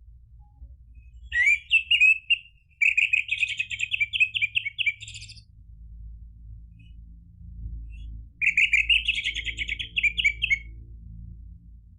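Orange-headed thrush singing: three quick, warbling and trilling song phrases. Two come close together in the first half, and the third follows after a pause of about three seconds.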